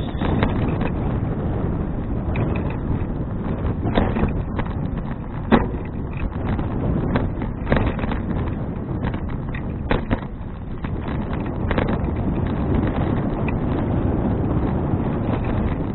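Wind rumbling on an action camera's microphone while cycling, with a few sharp knocks and rattles from the bicycle going over a rough, sandy path. The loudest knock comes about five and a half seconds in.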